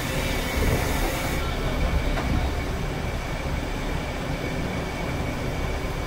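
A train running along the track: steady rumble and rail noise heard from the front of the train, with a faint steady high whine. A high hiss stops about a second and a half in.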